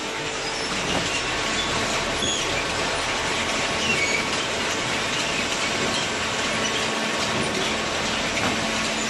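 Hydraulic cardboard baler running: a steady mechanical noise with a faint hum and scattered short high squeaks.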